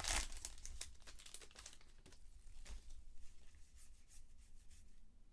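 Crinkling and rustling of a foil trading-card pack wrapper and the cards being handled, densest in the first second or so, then thinning to a faint rustle.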